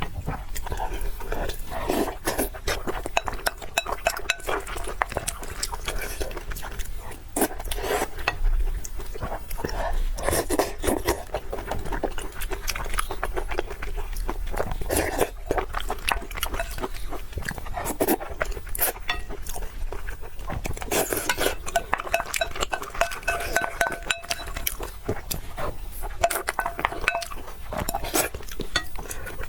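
Close-miked eating sounds: wet chewing and mouth smacks mixed with chopsticks and spoon clicking and clinking against a bowl, in a dense, irregular stream of small clicks.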